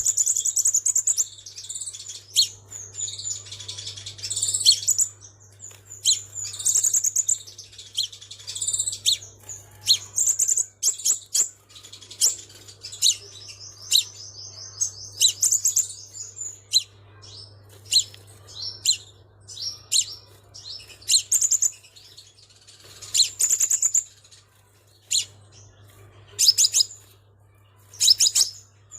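Sunbird calling: a run of sharp, high chirps and short trills, with one longer rapid trill in the middle, over a faint steady low hum.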